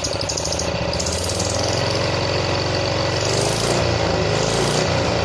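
Tractor engine running steadily with a fast, even firing beat, getting slightly louder about two seconds in.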